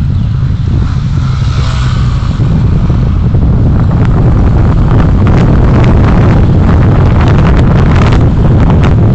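Moving road vehicle: a loud, steady low rumble of road and wind noise, with wind buffeting the microphone. The buffeting crackles more densely from about three seconds in.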